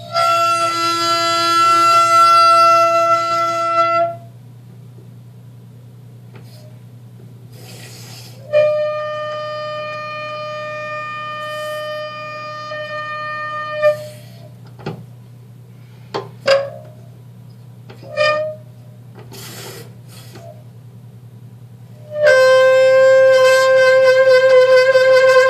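Sink faucet squealing: three long, steady high-pitched tones several seconds each, the last one slightly wavering, with a few short squeaks between them. A low steady hum runs underneath.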